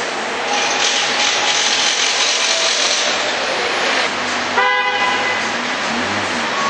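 Car assembly plant noise: a steady loud hiss of machinery and air, with one short horn toot about four and a half seconds in.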